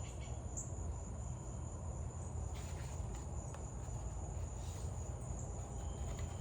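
Crickets chirping in a steady, unbroken high trill over a low, constant background rumble.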